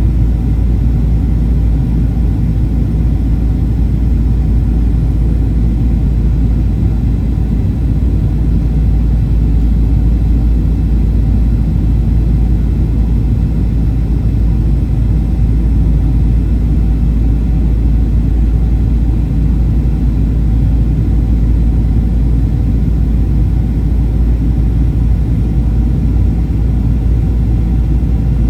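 Steady low rumble inside a Boeing 737-800's passenger cabin: engine and airflow noise, unchanging.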